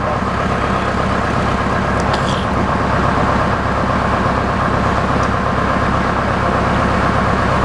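Tractor engine running hard and steadily, powering a sawmill's flat belt drive while the blade is stuck in the log.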